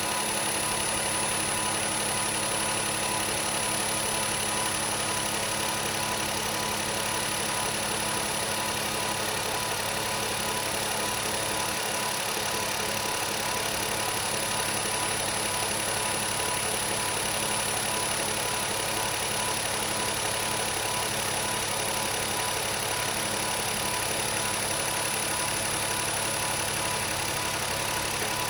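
Nissan Note E13 engine (1.2-litre three-cylinder) idling steadily, a used engine running to show that it is in working order.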